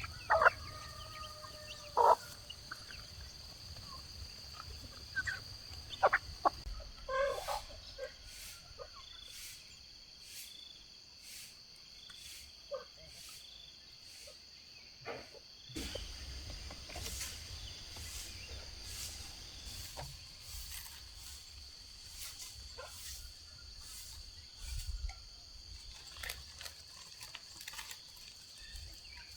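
Insects keep up a steady high-pitched drone. A drawn-out animal call sounds in the first two seconds, and scattered sharp clicks and knocks run through the rest.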